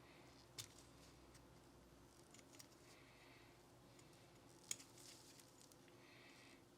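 Faint handling sounds of a Glock 19 pistol being worked on during cleaning: a few light clicks, the sharpest about two-thirds of the way through, and three short stretches of soft rubbing.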